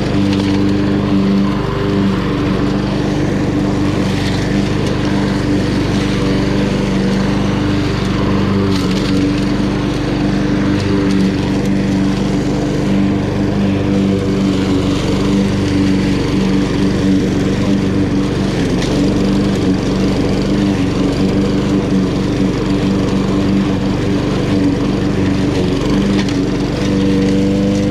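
Honda HRN216 walk-behind lawn mower's GCV170 single-cylinder four-stroke engine running steadily at working speed while cutting grass.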